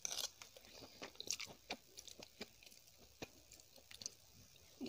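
Close-miked chewing of a mouthful of Maggi instant noodles, with many short mouth clicks and smacks spread through, the loudest right at the start.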